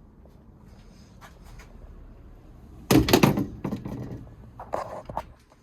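Hand-worked rod-and-lever gear change linkage on a Suzuki Hayabusa engine: light clicks, then a loud clunk and rattle about three seconds in, and a few more knocks near the end as the linkage is moved and sprung back.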